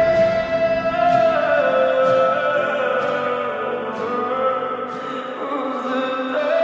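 Russian-language pop song playing: a held melody note that slides lower partway through and comes back up near the end, over a soft layered backing.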